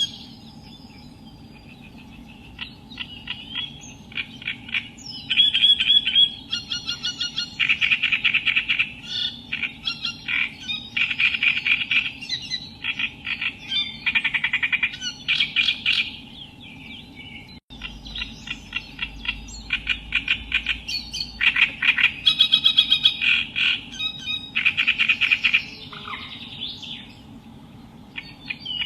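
Reed warbler (Acrocephalus) singing: phrases of rapidly repeated harsh chattering notes in bursts with short pauses between them, over a steady low hum.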